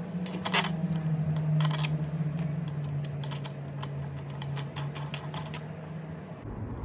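Restored Stanley 557 bench grinder's motor hum slowly falling in pitch as it coasts down, then stopping near the end, with scattered light metallic clicks and taps.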